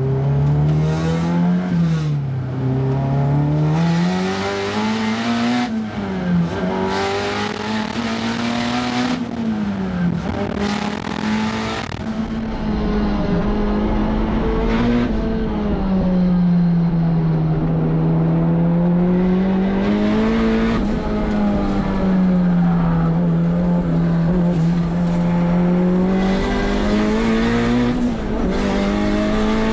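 Turbocharged Honda K24 four-cylinder in a track-driven S2000, running hard. Its pitch climbs and drops again every few seconds through the run, with long pulls held near the top.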